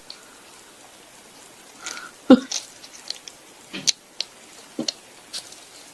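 A few scattered light taps and knocks over quiet room tone, the loudest about two seconds in.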